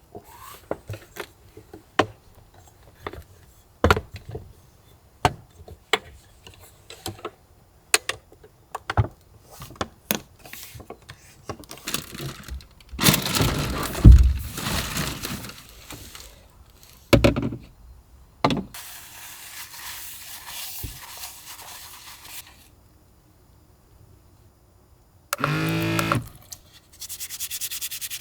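Small knocks, clicks and rubbing scrapes of objects being handled, with a louder rustling scrape about halfway through. A steady hiss follows and cuts off suddenly.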